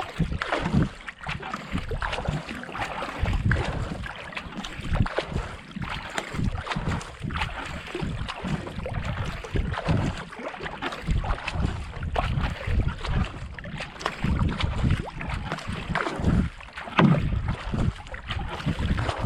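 Racing kayak being paddled at pace: the paddle blades catch and splash the water in a repeating stroke rhythm, at a rate of about 70 to 80 strokes a minute. Wind buffets the microphone at the same time.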